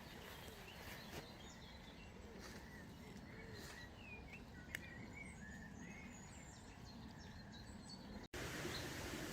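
Faint birdsong, a scatter of short chirps and warbles, over a low steady outdoor background. About eight seconds in it cuts to a louder steady rushing noise.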